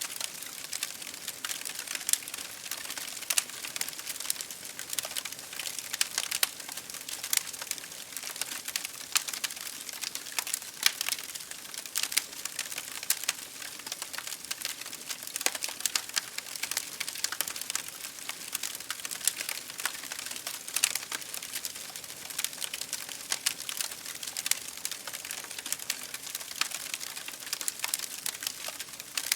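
Wood fire crackling in a fireplace, dense sharp pops and snaps over a steady hiss of rain pattering against a window.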